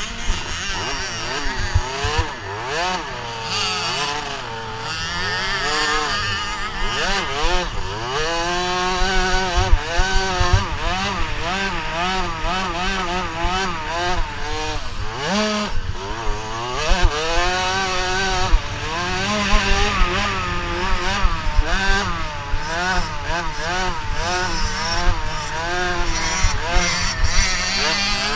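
Several motocross bike engines revving, their pitch rising and falling over and over as the riders open and close the throttle through the gears, with more than one engine heard at once.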